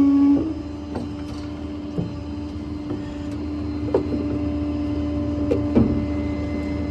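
Truck-mounted hydraulic crane system running with a steady pump whine. Its strain eases about half a second in as the hydraulic function stops. A few short knocks and clicks from the crane's hydraulics follow.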